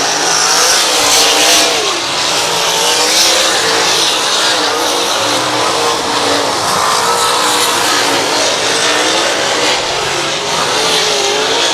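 A pack of dirt-track race cars at racing speed on the oval, several engines overlapping, each one's pitch rising and falling as the cars come off and back onto the throttle around the track.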